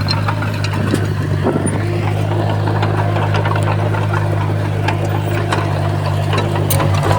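A Komatsu bulldozer's diesel engine running steadily under work, with many scattered clicks and knocks over it.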